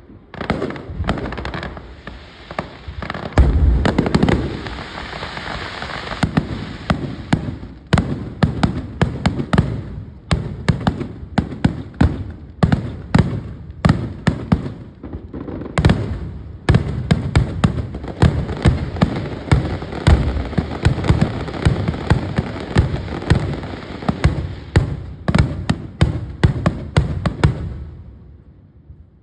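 Fireworks display: a rapid, dense succession of shell bursts and crackling reports, with a heavy low boom about three and a half seconds in; the volley thins out near the end.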